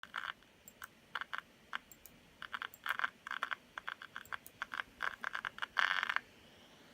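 A failing cooling fan in a 2015 MacBook Pro crackling in irregular bursts of clicks. The crackling stops about six seconds in. This is the sign of a fan that needs replacing.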